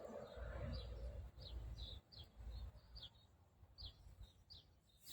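A small bird chirping faintly and repeatedly, with about eight short, high, downward-sliding notes spaced irregularly, along with a low rumble during the first two seconds.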